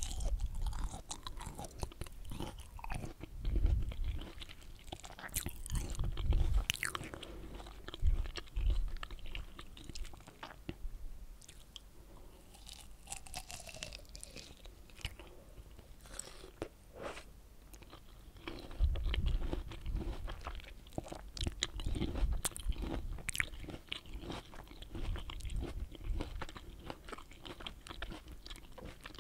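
Close-miked biting and chewing of pomelo pulp: crunches and wet mouth clicks, thinning out for a while around the middle.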